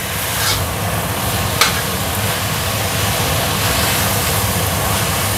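Tempe, chili and tomato sizzling in a stainless steel wok as a metal spatula stirs it, with two short scrapes against the pan at about half a second and a second and a half in. Under it runs the steady hum of a kitchen extractor hood.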